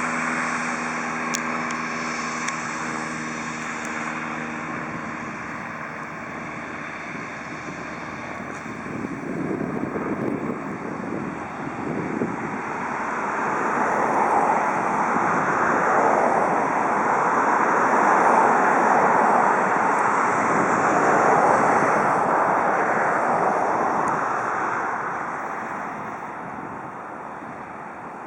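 Medevac airplane's engine running as it taxis past. A steady engine hum fades over the first few seconds. Louder engine noise then builds, is loudest in the middle, and dies away near the end.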